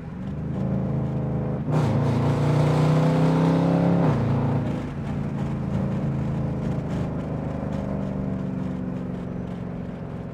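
Dodge Durango R/T's 345 Hemi V8 accelerating hard: a second or two in the engine note jumps louder and climbs in pitch. About four seconds in it eases off and runs on at a steadier, quieter note.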